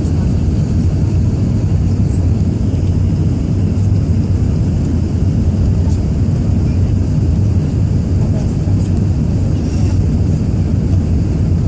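Steady low rumble of an Airbus A380's engines and airflow heard inside the passenger cabin.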